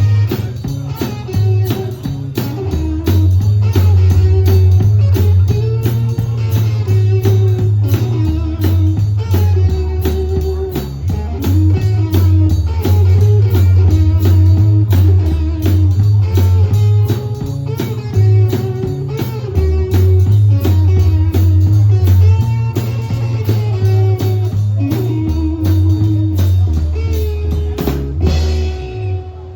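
Blues band playing: guitar over a strong bass line and a steady drum kit beat. The tune ends about a second before the close.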